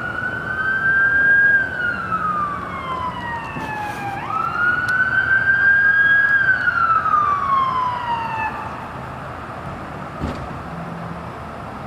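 Electronic siren on a fire chief's pickup truck sounding a wail, twice rising and then sliding slowly down in pitch, cutting out about two-thirds of the way through and leaving road noise.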